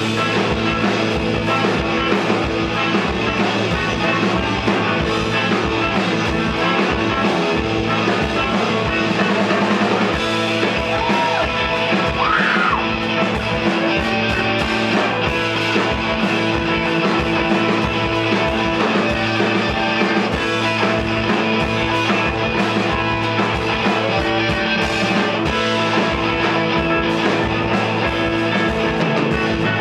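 Live rock band playing, with electric guitars, bass and drums keeping a steady beat, recorded from the audience.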